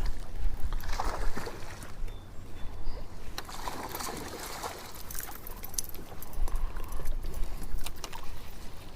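Wind buffeting the microphone in gusty low rumbles, strongest at the start and again about two-thirds of the way in, with scattered sharp clicks and knocks from fishing tackle and the boat.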